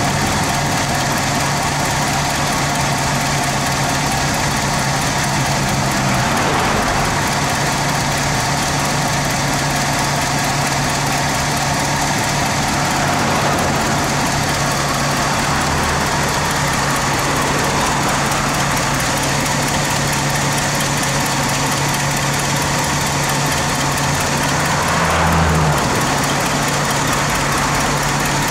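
1969 Ford Country Squire's 390 cubic-inch V8 with four-barrel carburettor idling steadily, picking up speed briefly near the end.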